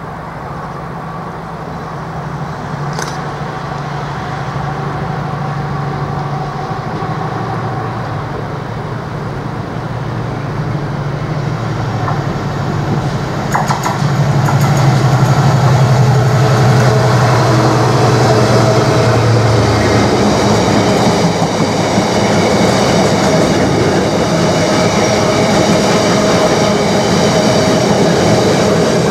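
A British Class 70 diesel-electric locomotive running, its engine drone growing louder as it approaches and passes, then falling away about two-thirds of the way through. After it passes, the container wagons roll by with the rumble and click of wheels over the rails and a faint high ringing from the wheels.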